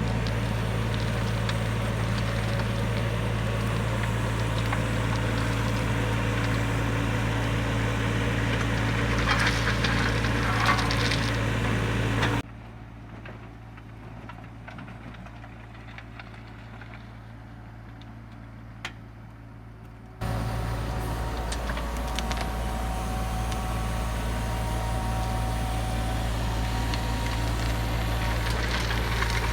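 Mini excavator engine running steadily, with the scraping and crackle of the cleanout bucket working dirt and stone. In the middle the sound drops to a much quieter low hum for about eight seconds, then the engine sound returns at full level.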